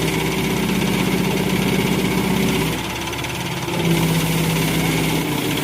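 A vehicle engine running steadily close by, with a fast even pulse. It eases off briefly about three seconds in, then picks up again.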